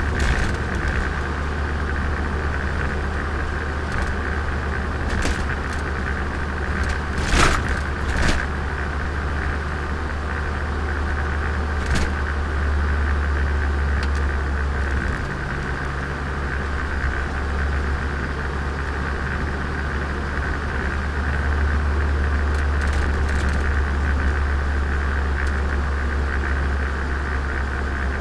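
Turbocharged Nissan Micra heard from on board while driving: steady engine drone with road noise, and a few short knocks, the loudest about seven to eight seconds in.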